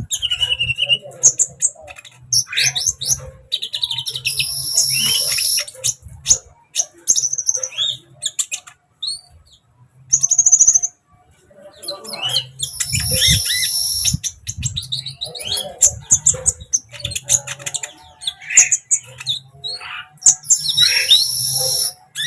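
Kolibri ninja sunbird singing: fast, high chirps and twittering sweeps, broken three times by a long, high, buzzy trill lasting about a second and a half, with a brief lull near the middle.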